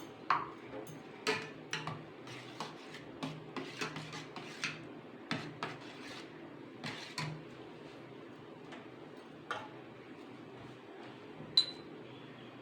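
Metal spoon and kitchen utensils clinking and tapping irregularly while spices are handled, over a steady low hum. Near the end there is one sharper clink that rings briefly.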